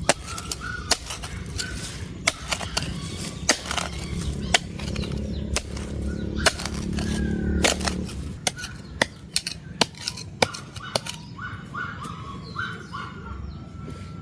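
Irregular sharp knocks and cracks, such as chopping or knocking work with wood or stone, with a low rumble for a couple of seconds past the middle. Short bird calls come in near the end.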